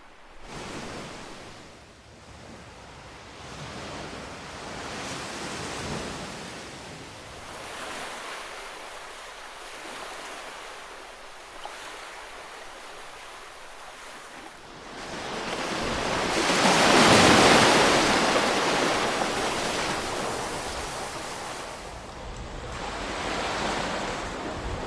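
Ocean waves washing onto a shore. The surf rises and falls in several gentle swells, and the loudest wave breaks about two-thirds of the way through.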